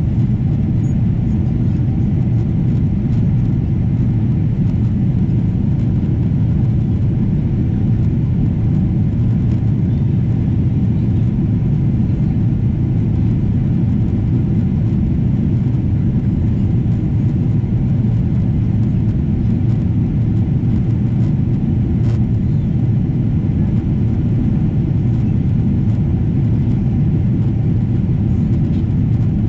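Steady, loud rumble of a Boeing 777-200's jet engines and airflow as heard inside the passenger cabin, deep and unchanging.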